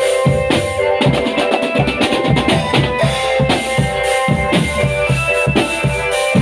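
Marching drum band playing: drums beat a steady rhythm with deep bass-drum hits under held melodic notes. A fast run of drum strokes comes about a second in.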